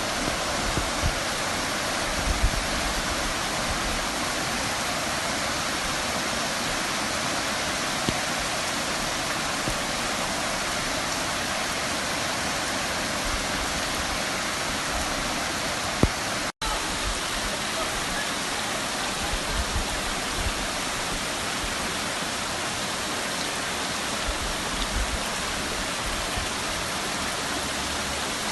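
Heavy rain and rushing floodwater: a steady, even rush of water noise, broken once by a split-second dropout partway through.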